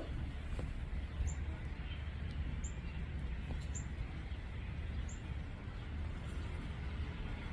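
A small bird chirping, short high chirps repeating about once a second over a steady low rumble. This is not the low coo of a dove.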